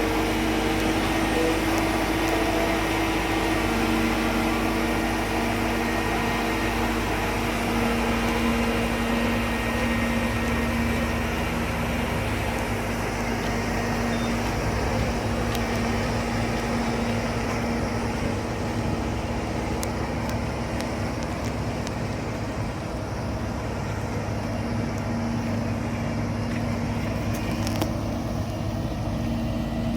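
Single-drum vibratory road roller's diesel engine running steadily, with a low rumble and a steady hum.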